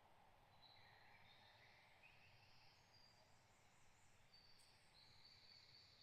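Very faint birdsong: scattered short, high chirps and trills from more than one bird over a low, steady background hush.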